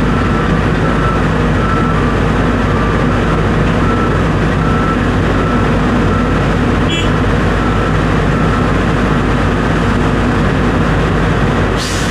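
A vehicle engine running steadily and loudly, with a short click about seven seconds in and a knock near the end.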